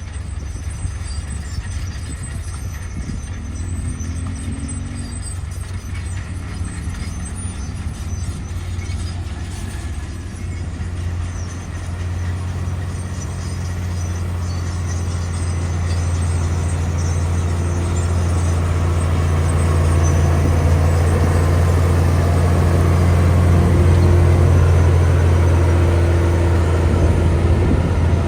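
Diesel engine of a heavy earthmoving machine running under load, a deep steady drone that grows louder through the second half and peaks near the end.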